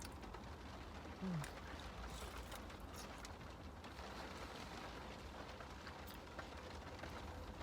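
Quiet eating: faint clicks of chewing and food handling over a steady low rumble, with a short falling hum of a voice about a second in.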